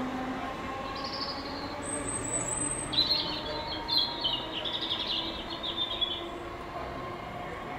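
Small birds chirping: a few high chirps, then a quick run of twittering notes in the middle, over a faint steady hum.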